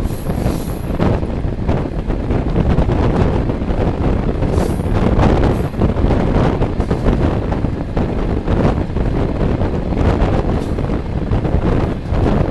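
Moving passenger train heard from an open carriage window: the steady rumble of wheels on the rails, mixed with wind buffeting the microphone.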